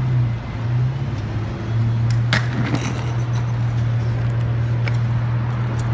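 Dodge Challenger idling with a steady low drone, with a couple of sharp clicks a little over two seconds in.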